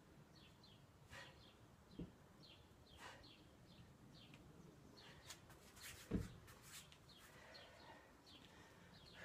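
Faint garden ambience of small birds chirping in short repeated calls. A soft thud comes about two seconds in and a louder thump, the loudest sound here, about six seconds in.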